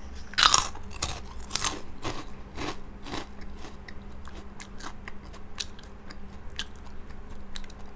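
A person biting into and chewing crunchy fried Aladin Jadui Jinn snack pieces: one loud crunch about half a second in, then a run of irregular crunches that grow fainter as the chewing goes on.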